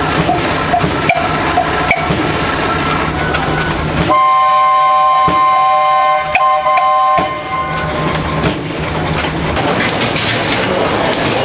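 Old stationary engines running, with faint knocks about once a second. About four seconds in, a whistle sounds loudly on one steady note for about three seconds and cuts off sharply, and the engine noise carries on after it.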